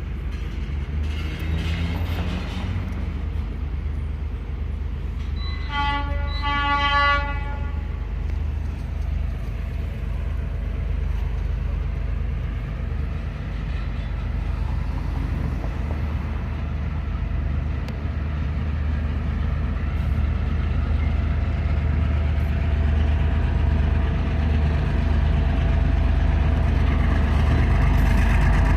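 Train at a level crossing: a steady low rumble that slowly grows louder, with one locomotive horn blast lasting about a second and a half, about six seconds in.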